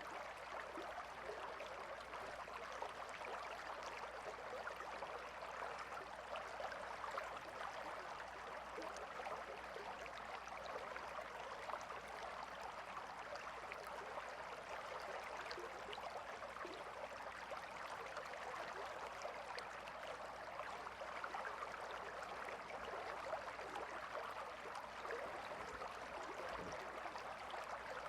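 Calm river flowing: a steady, even rush of running water with no changes.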